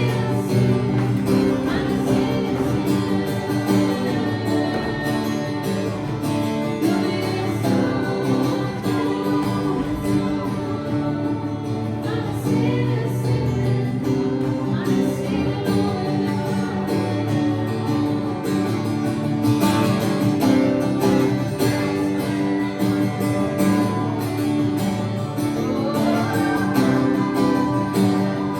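Live worship music: singing over guitar accompaniment.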